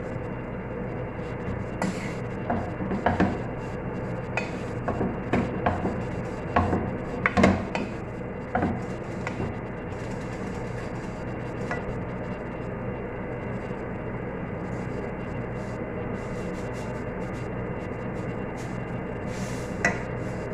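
A kitchen utensil scraping and clinking against cookware while shredded chicken filling is worked, with a run of sharp knocks in the first half, over a steady low hum.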